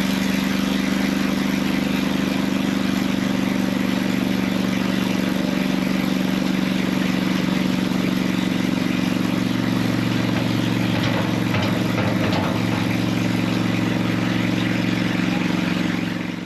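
Engine of a loader spreading stone, running steadily with an even, unchanging pitch.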